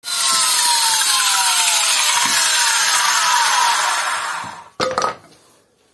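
Angle grinder with a cutting disc running into masonry, loud and gritty, its whine falling steadily in pitch before it stops about four and a half seconds in. A couple of sharp knocks follow near the end.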